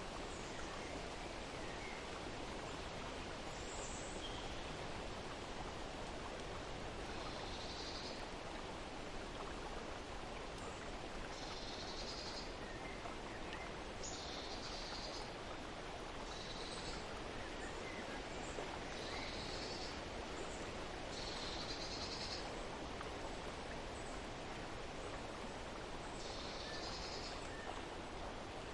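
Steady rush of flowing water with a songbird giving short, high calls every two or three seconds.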